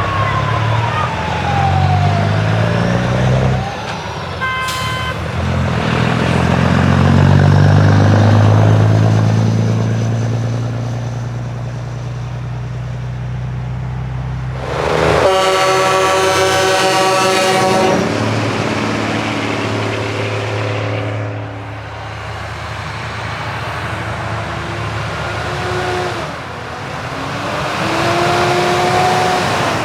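Heavy trucks driving past with engines running and rising and falling in pitch, amid blasts of truck air horns. The loudest is a horn chord of many tones held for about three seconds midway, with a shorter horn blast about four seconds in and a falling siren-like wail at the start.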